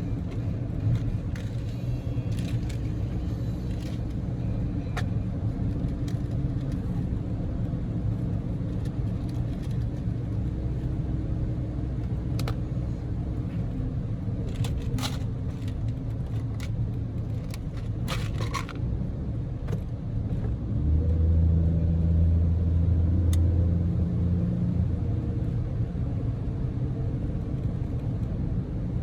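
Daihatsu Move L150S with its 660 cc three-cylinder EF-VE engine driving, heard from inside the cabin: a steady engine and road rumble that grows louder for a few seconds about three-quarters of the way through, with a few scattered clicks and knocks in the middle.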